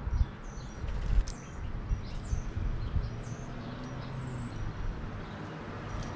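Small birds chirping: scattered short, high chirps with quick downward slides, over a steady low rumble. A few dull thumps stand out, the loudest a sharp knock about a second in.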